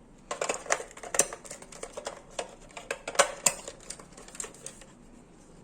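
A run of irregular clicks and knocks as an RC tank and its battery pack are handled, loudest about a second in and again about three seconds in.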